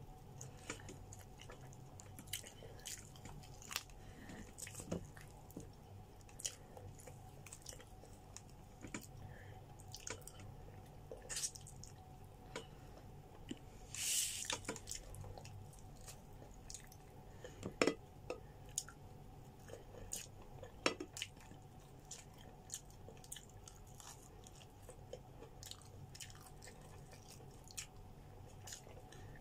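Close-up chewing of grilled chicken eaten by hand: irregular small wet mouth clicks and smacks. A brief hiss comes about halfway through, and a few sharper clicks come later.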